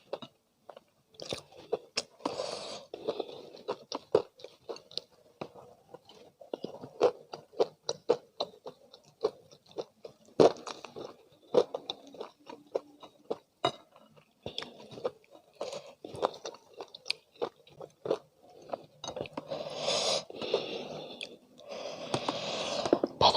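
Close-miked chewing of crispy spicy fried chicken: a steady run of irregular crisp crunches and crackles, growing denser and louder in the last few seconds.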